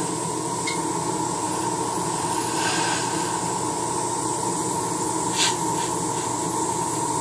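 Airbrush spraying paint with a steady hiss of air, over a steady mechanical hum, with a couple of brief sharper spurts of air.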